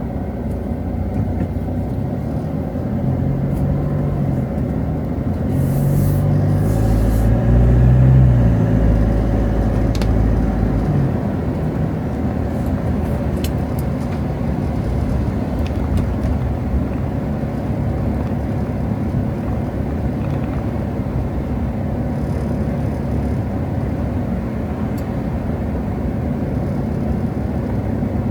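Street traffic running steadily, with one vehicle's engine passing close, loudest about eight seconds in.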